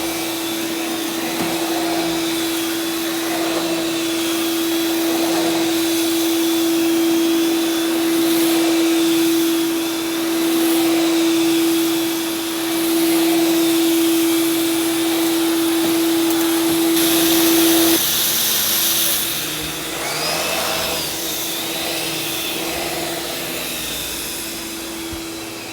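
Oreck vacuum cleaner running on dry carpet: a steady motor whine over a rushing hiss. About seventeen seconds in, a louder rush of hiss lasts a second, and after it the whine weakens and comes and goes.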